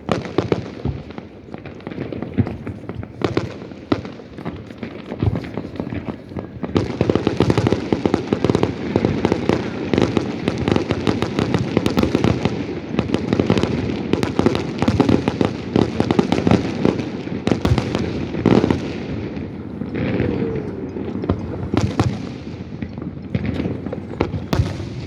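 Fireworks going off: scattered single bangs at first, then a dense run of rapid bangs and crackle from about seven seconds in until about twenty seconds in, and single bangs again near the end.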